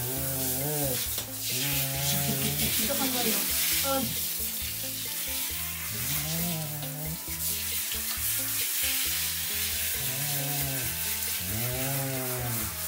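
Handheld shower running and spraying water onto a wet dog's coat: a steady hiss, with background music playing over it.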